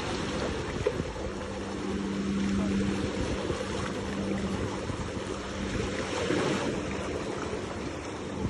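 Seaside wind and water noise, with a steady low engine hum, like an idling boat motor, that comes in about a second in and fades after a few seconds.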